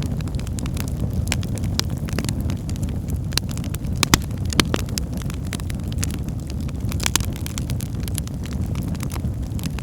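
Wood fire burning in a fireplace: a steady low rumble of the flames with irregular sharp crackles and pops from the burning logs, a couple of louder pops near the middle.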